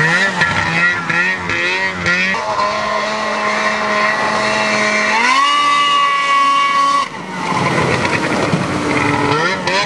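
A vehicle engine working hard off-road: its pitch wavers for the first couple of seconds, then holds steady, rises about five seconds in and holds higher, drops sharply about seven seconds in, and climbs again near the end.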